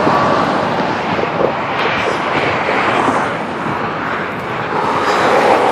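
Steady noise of freeway traffic passing close by, rising and falling a little as vehicles go past.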